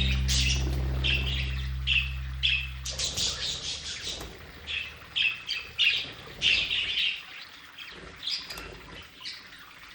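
Budgerigars chirping and chattering in many short, high calls.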